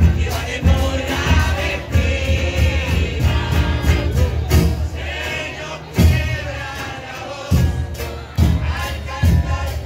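Murga chorus singing together over its drum section, with bass drum strokes and snare and cymbal hits keeping a steady beat.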